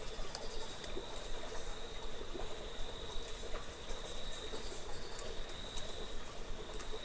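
Cave ambience: a steady high-pitched insect trill with scattered faint clicks and patters.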